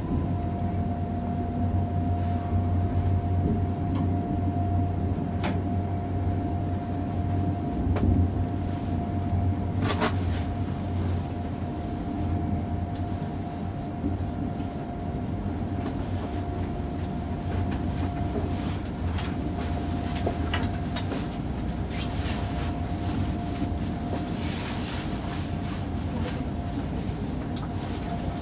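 Interior of a Deutsche Bahn ICE 3 high-speed electric train at station speed: a steady high tone over the low rumble of the running gear, with a few sharp clicks. The rumble eases about halfway through.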